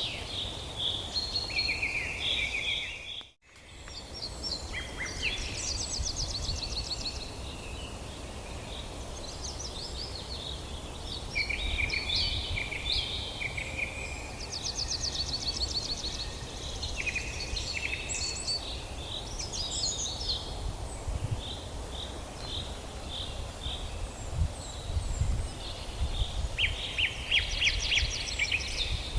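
Several songbirds singing over one another, with rapid trills and repeated chirping phrases, over a low steady outdoor rumble. All sound drops out briefly about three seconds in.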